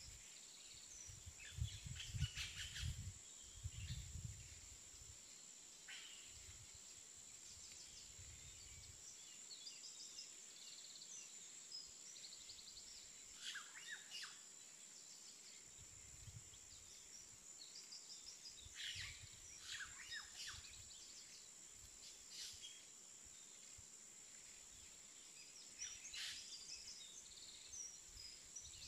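Faint background of birds chirping now and then, over a steady thin high-pitched whine, with occasional soft low bumps.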